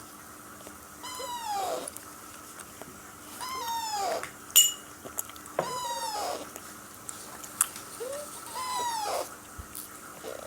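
A young Alexandrine parakeet chick calls four times, about every two and a half seconds. Each call is a drawn-out rising-and-falling squawk. A single sharp click comes about halfway through.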